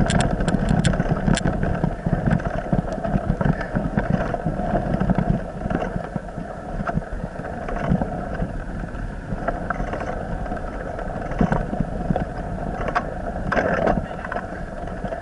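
A vehicle engine running at a steady speed while travelling, with wind and road rumble on the microphone and scattered clicks and knocks.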